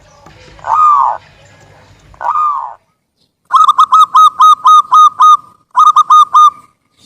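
Zebra dove (perkutut) calling. Three drawn-out notes come first, then from about halfway a rapid run of short repeated cooing notes, a brief break, and a shorter run of the same notes.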